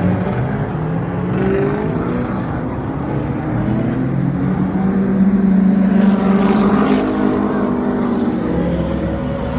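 Car engines running and revving, with the engine pitch shifting up and down; loudest from about five to seven seconds in.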